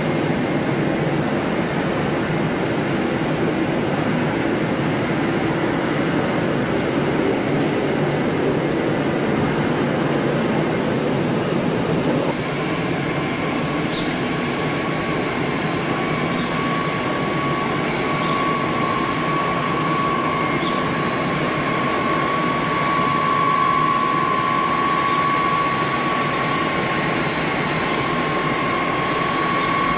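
Jet airliner engines running, a steady rushing noise. About twelve seconds in the sound changes abruptly and a steady high-pitched turbine whine comes in and holds.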